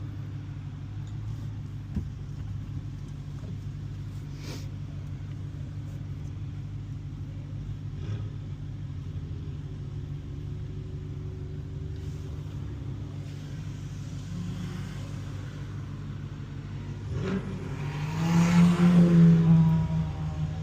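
2015 Dodge Challenger Hellcat's supercharged 6.2-litre V8 running with a steady low drone and a few faint clicks, then about seventeen seconds in it revs up hard and loud before the revs fall away near the end.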